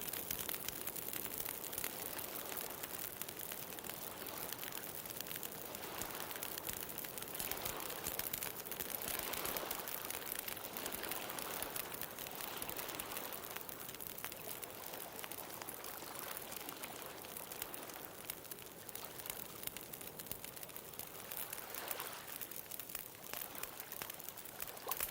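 Wood fire crackling with a steady scatter of small pops, over ocean surf that swells and eases every few seconds as waves wash in.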